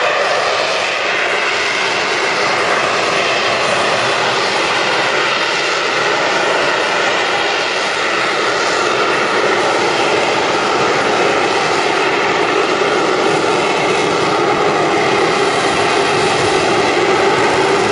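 Harrier jump jet hovering, its Pegasus turbofan running very loud and steady: a dense rushing noise with faint steady tones, swelling slightly near the end.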